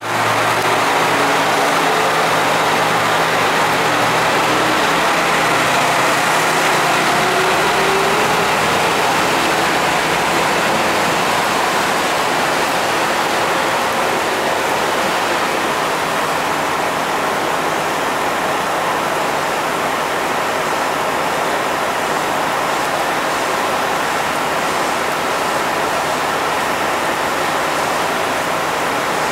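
Heavy rain, a steady loud hiss, over the diesel engine of a KiHa 125 railcar as it pulls away. The engine's low note is heard for the first several seconds and rises briefly about six to eight seconds in, then is lost under the rain.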